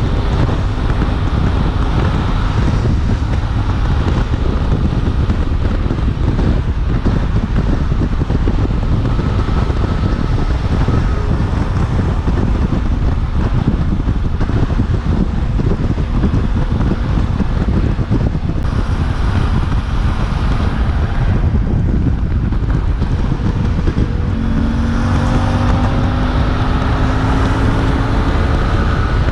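Suzuki V-Strom 800DE's parallel-twin engine running while riding, largely buried under heavy wind noise on the microphone. Near the end the engine note comes through more clearly and rises in pitch as the bike accelerates.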